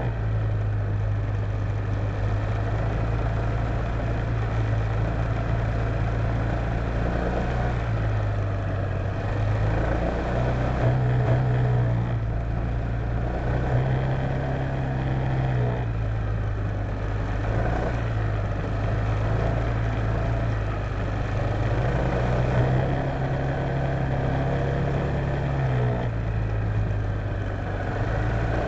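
Honda PCX150 scooter's single-cylinder engine running at speed, its note stepping up and down every few seconds as the throttle is opened and eased, over steady wind and road noise.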